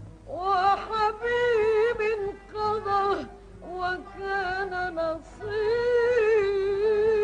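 Woman singing an Arabic tarab song in long ornamented, wavering phrases with short breaks, ending on a long held note. The sound is that of an old film soundtrack recording.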